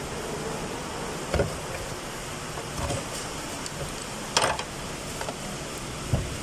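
Four short knocks and clatters of parts and hand tools being handled during fuel pump work, the loudest a little past the middle, over a steady background hum.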